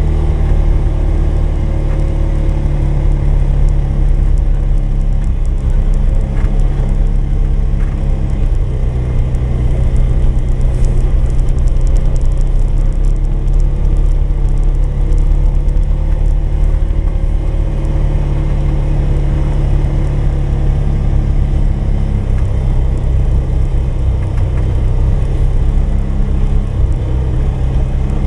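Polaris 570 ATV's single-cylinder four-stroke engine running steadily under way, its pitch rising and falling a little with the throttle.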